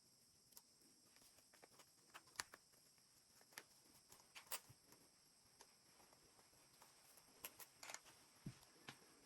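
Near silence with faint, scattered small clicks and taps from handling a doll and its accessories, over a steady faint hiss.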